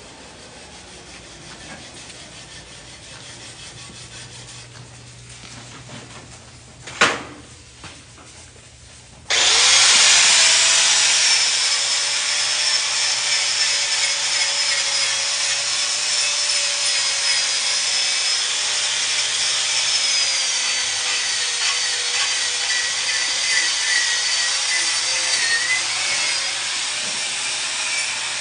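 Shielded metal arc (stick) welding: a short sharp snap about seven seconds in, then the arc catches suddenly about nine seconds in and runs as a loud, steady hiss.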